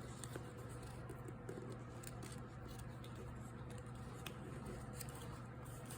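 Faint rustling and a few soft ticks of colored origami paper being folded and tucked by hand, over a steady low hum.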